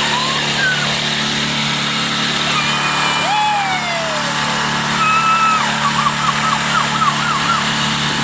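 Boat engine running steadily under an even hiss of water and wind. A few thin whistles come over it: one sliding down in pitch about three seconds in, and a quick warbling run near the end.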